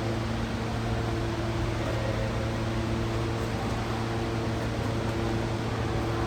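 Steady mechanical hum with a low drone and a few fixed tones over an even hiss, unchanging throughout.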